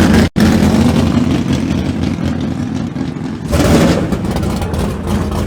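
Drag-racing car engines running with rough, uneven revving. The sound drops out abruptly for an instant near the start, and the engine noise swells again about three and a half seconds in.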